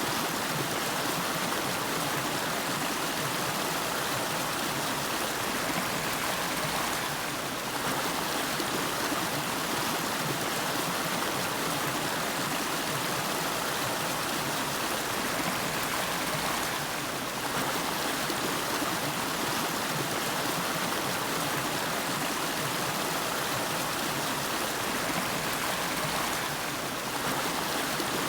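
A river's flowing water making a steady, even rush, with brief slight dips in level three times.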